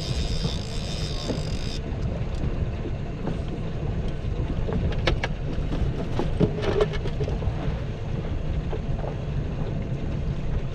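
Fishing boat's motor running with a steady low rumble and wind on the microphone. A short high hiss comes in the first two seconds, and a few light clicks and knocks come around the middle.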